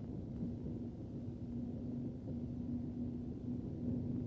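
Multiple-unit passenger train running alongside a station platform: a steady low rumble with a hum that drops in and out.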